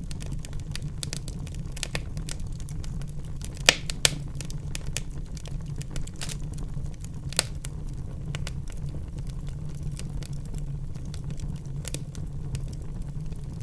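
Wood fire in a fireplace crackling: a dense run of small pops and ticks over a steady low rumble of the flames, with a few louder snaps about four seconds in and again at about seven seconds.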